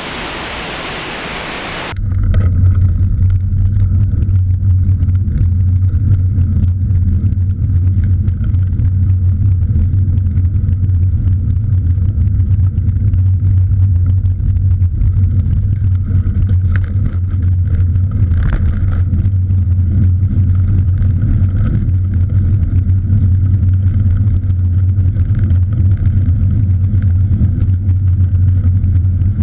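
Waterfall rushing for about two seconds, then an abrupt cut to a loud, steady low rumble of riding a cross bike along a road, with wind and tyre noise.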